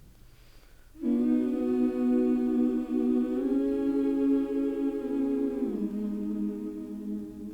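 Background ambient music of sustained wordless humming voices, one held chord starting about a second in and moving down to a lower note near the end.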